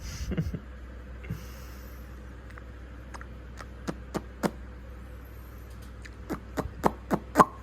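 A series of sharp clicks: three evenly spaced about four seconds in, then a quicker run of about six near the end, the last one the loudest.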